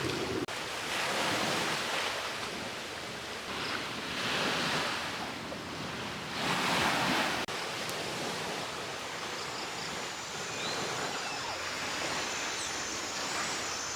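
Small waves washing onto the shore in several surges a few seconds apart, each a soft rush of water. In the second half the surf settles and faint high chirps and a thin high tone come through.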